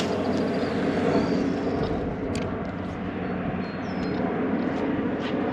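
Steady low mechanical drone, with a few short high chirps over it.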